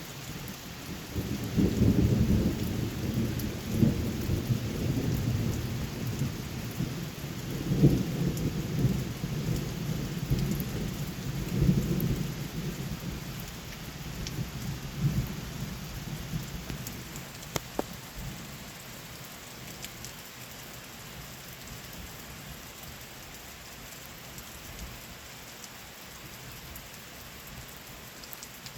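Thunder rumbling long and low for about fifteen seconds, swelling several times, over steady rain. The rumble fades out about two-thirds of the way through, leaving only the rain.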